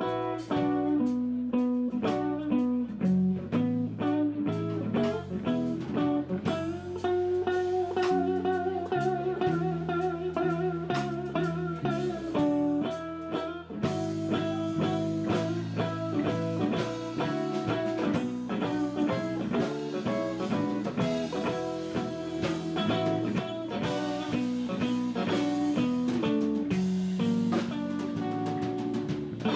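Live blues instrumental played by a trio: lead guitar over bass and drum kit, with a long held, bending guitar note about a third of the way in.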